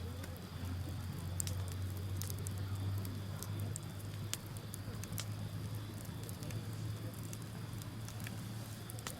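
Wood bonfire crackling, with a dozen or so sharp pops and snaps scattered through, over a steady low rumble.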